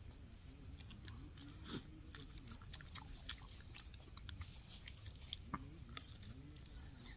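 A person chewing and biting into chicken lollipop: quiet, irregular little clicks and crunches of eating.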